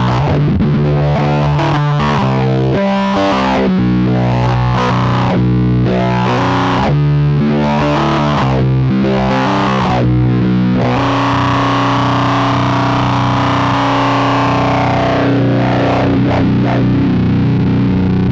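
Electric guitar played through the AC Noises URLA's square-wave fuzz and resonant low-pass filter. The filter is swept open and closed with an expression pedal in a wah-like way over a riff of changing notes. About eleven seconds in, a single note is held and sustains to the end.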